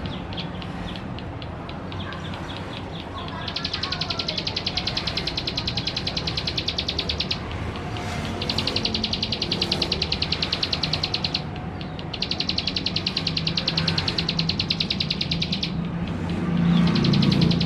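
Male ciblek sawah (a prinia) singing in repeated bouts of very rapid, high ticking notes, each bout lasting three to four seconds with a short break between. A steady low hum runs underneath and grows louder near the end.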